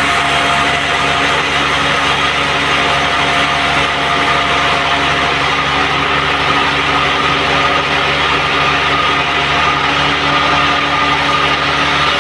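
Band sawmill running steadily: a loud, constant machine noise with a few steady whining tones that neither rise nor fall.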